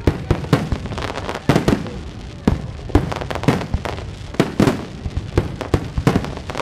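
Aerial fireworks shells bursting in quick, irregular succession: sharp bangs several times a second, some in close pairs.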